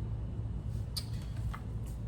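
Three light clicks, about a second in, a moment later and near the end, over a steady low hum.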